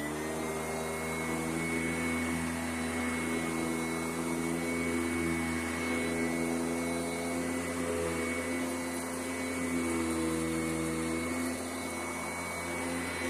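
Sanitaire SC881 upright vacuum cleaner's motor finishing its spin-up and then running steadily with a high whine, picking up loosened dirt from carpet.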